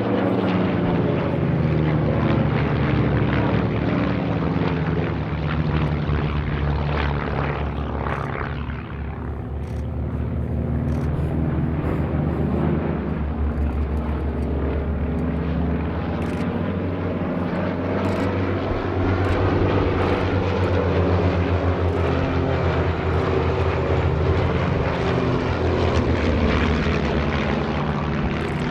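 Propeller aerobatic planes flying a display overhead, engines running hard. The engine note slides down in pitch as they pass and fades a little about nine seconds in, then builds again as they come back around.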